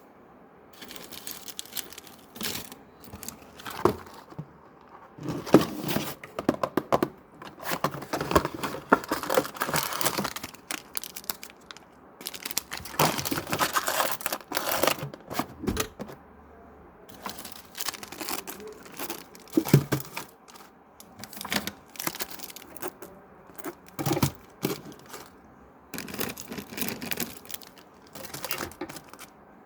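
Crinkly plastic snack packets being handled, rustling and crackling in irregular bursts with short pauses between.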